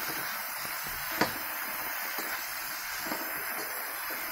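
Beans and potato sabzi sizzling in a kadhai while it is stirred with a metal spatula, a steady hiss with a sharp clink of the spatula against the pan about a second in and a lighter one near three seconds.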